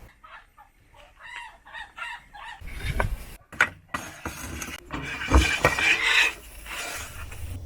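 Chickens clucking in short repeated calls, then a series of sharp knocks and clinks, the loudest about five seconds in.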